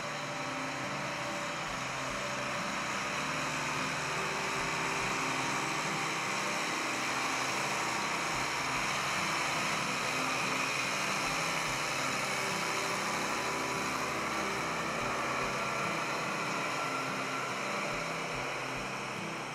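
Diesel engine of a 2008 New Holland T9030 tractor idling steadily.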